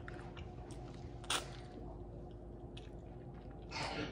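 Close-miked chewing of fried chicken wing, with one sharp crunch about a second in and soft wet mouth clicks around it. A short breathy noise comes near the end.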